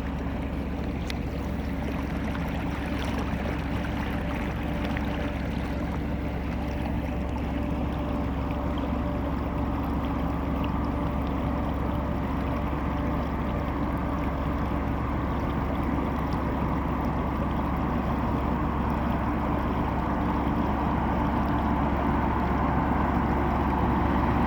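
Steady low machinery hum from a large anchored cargo ship, with a constant noise of water underneath, growing gradually louder.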